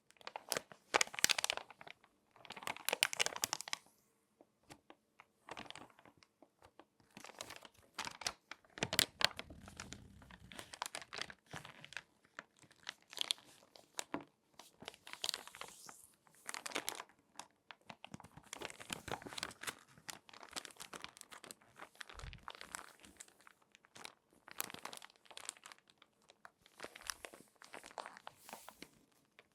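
Crinkly glossy magazine pages being folded and handled, in irregular bursts of crackling paper crinkles with short pauses between them, and a soft dull thump about nine seconds in.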